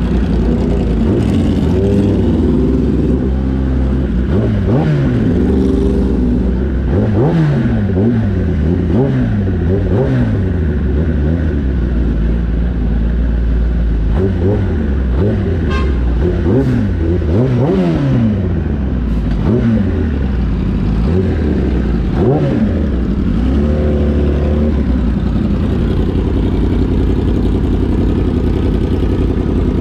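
Kawasaki ZX-10R's inline-four engine revving up and down over and over, its pitch rising and falling about once a second, then running at a steady pitch for the last several seconds.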